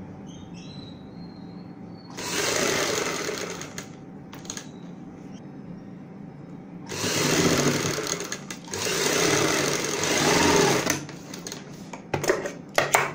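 Sewing machine stitching a buckram-backed neckline in three runs of one to two seconds each, with short pauses between. A few sharp clicks near the end.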